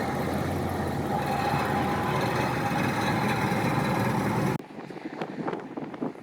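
A motor vehicle running steadily with a loud, even noise that cuts off abruptly about four and a half seconds in, leaving quieter scattered clicks.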